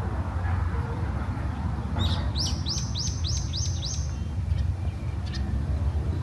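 A small bird sings a quick run of about six high chirps, each sweeping down, starting about two seconds in. A steady low rumble runs underneath.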